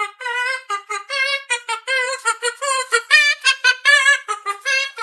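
A cockatoo vocalizing in a rapid string of short, wavering, song-like notes, each breaking off after a fraction of a second.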